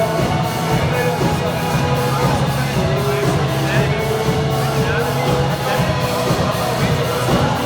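Live church band playing a worship song, with a steady drum beat and a sustained bass.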